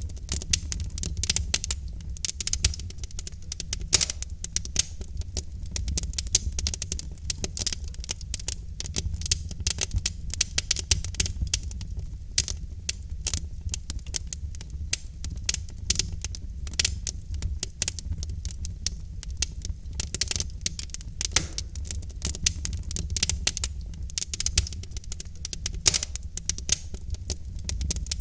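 Logs burning in a fireplace, crackling and popping in dense, irregular snaps over a steady low rumble.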